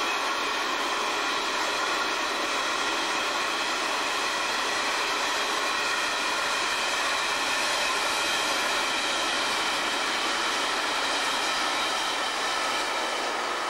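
Coal train hopper wagons rolling past on the rails, a steady, even rumble and rattle of wheels on track.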